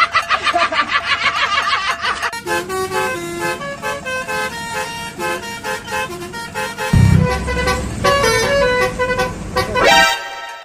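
Multi-tone 'telolet' Basuri bus horn playing a quick melody of stepped notes, after a rapid pulsing sound in the first two seconds. A low rumble joins about seven seconds in, and a rising sweep ends in a sudden cut-off near the end.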